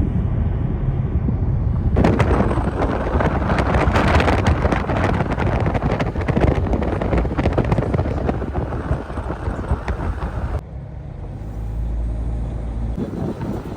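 A car driving on the road, with a steady low rumble. From about two seconds in, a loud rushing noise with crackle joins it, then drops away suddenly late on, leaving a quieter low hum.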